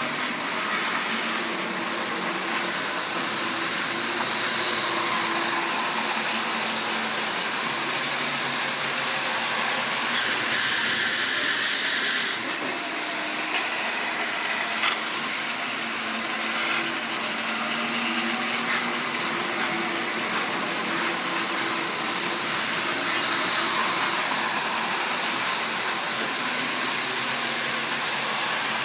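Model railway train running on the track: a steady electric motor hum and the rushing rattle of small wheels on rail, swelling and easing gently as it goes round, with a few faint clicks.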